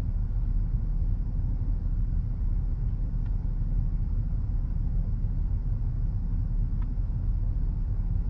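Strong wind buffeting the microphone: a steady low rumble, with two faint clicks about three and seven seconds in.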